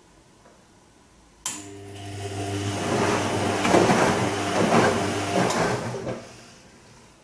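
Bosch Serie 2 VarioPerfect washing machine on its gentle Silk cycle: after a click, the drum motor hums and turns the drum for about four and a half seconds, with wet laundry and water swishing inside, then stops. This is the brief intermittent tumbling of a delicates wash.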